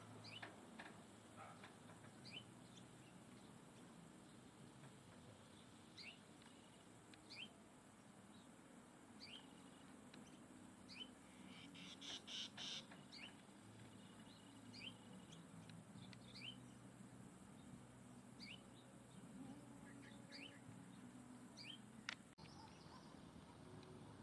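Faint wild bird chirps: short, high, rising calls scattered every second or so, with a louder cluster of calls about halfway through. A sharp click near the end.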